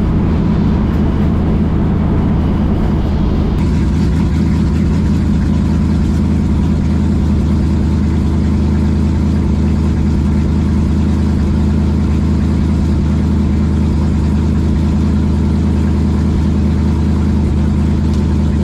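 Plymouth Belvedere drag car's engine running steadily at low speed, a deep, even engine note with no revving.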